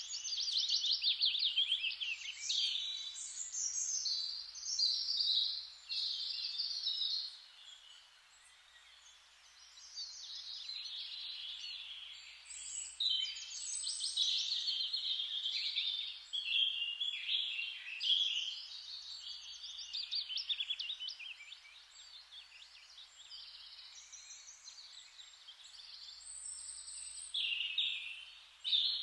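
Several songbirds singing in a chorus of rapid chirps and trills, with short lulls between bursts, over a faint steady hiss.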